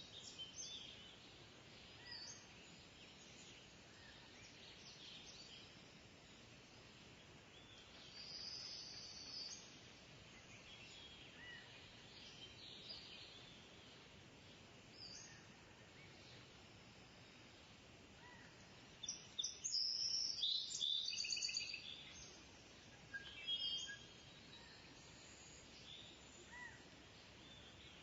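Kingfisher calling: short, high-pitched calls scattered over a faint steady hiss, with a louder run of rapid repeated calls about two-thirds of the way through.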